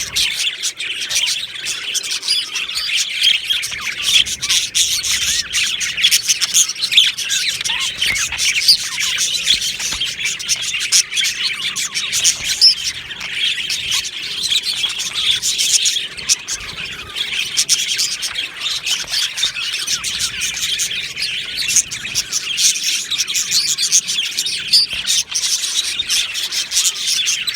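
A flock of budgerigars chirping and warbling together, a dense continuous chatter with occasional squawks.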